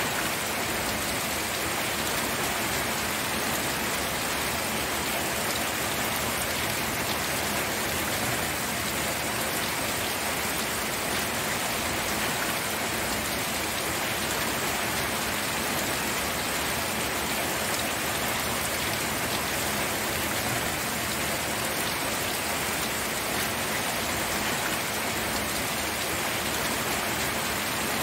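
Steady rain falling, an even hiss of raindrops on a surface that does not let up.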